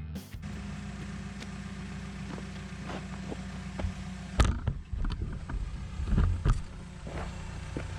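Cat 314E excavator's diesel engine running steadily, with a few sharp clanks and knocks of the bucket working dirt and rock, the loudest about halfway through.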